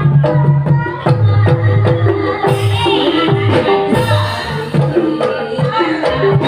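Live Javanese gamelan music accompanying an ebeg hobby-horse dance: ringing struck notes over a steady rhythm of drum strokes.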